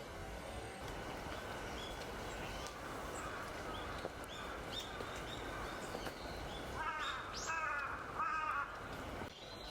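Crows cawing: a cluster of harsh calls about seven seconds in, with short high chirps from a small bird repeating before them, over steady low background noise.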